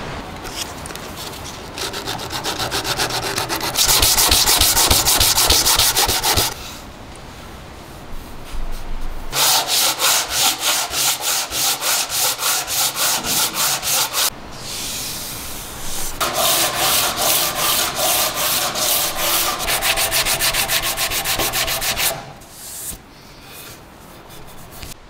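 Hand sanding a part of a bread cutter, with quick back-and-forth strokes at about four a second. The strokes come in three runs with short pauses between them.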